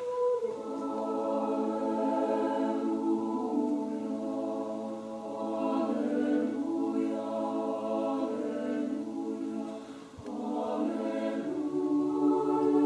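A choir singing a slow piece in long held chords, with a brief break about ten seconds in before the voices come back in.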